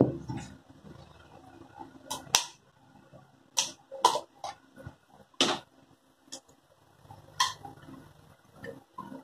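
A string of sharp, separate clicks and knocks, about eight or nine, from hands working on a disassembled electronic throttle body, its plastic and metal parts being handled and pried apart.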